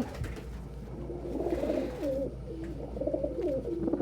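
Domestic pigeons cooing, several rising and falling coos following one another, with a brief rustle about a second and a half in.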